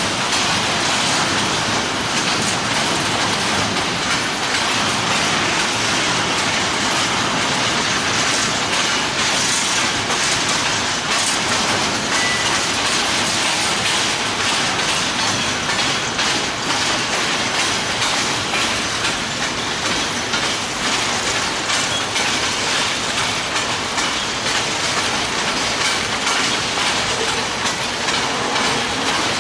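Freight train cars rolling past at steady speed: a continuous roar of steel wheels on rail with faint clattering over the rail joints.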